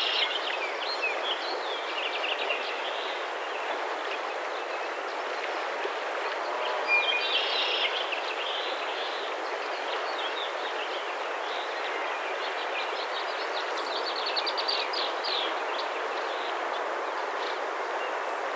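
Steady rushing outdoor background noise with a few bird calls over it: a short call about seven seconds in and a quick run of chirps around fourteen seconds in.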